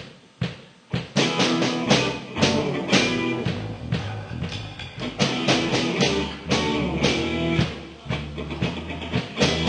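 Live rock band kicking into an instrumental intro with drum kit, electric guitar and bass, after a couple of sharp count-in clicks. The full band comes in about a second in.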